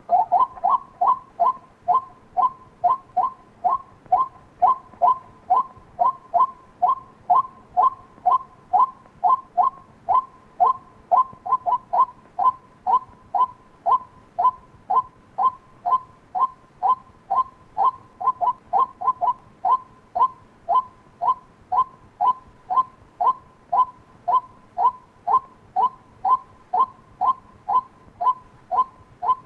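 White-breasted waterhen calls, a steady run of short, evenly spaced notes at about two a second.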